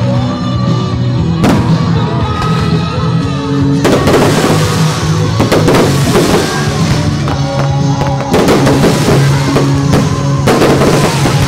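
Aerial fireworks bursting several times, each bang trailing into a spray of crackling, over steady loud music.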